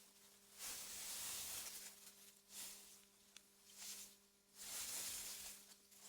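AI-generated wind through meadow grass: soft gusts of breathy rustling that swell and die away about four times, the longest lasting about a second. A faint steady low hum runs underneath.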